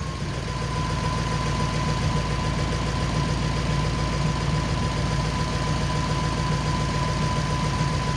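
1940 Ford flathead V8 idling steadily, with a thin, steady high-pitched whine over the engine note; it is running noticeably better after the no-start fix, though it still stalls if the carburetor is touched.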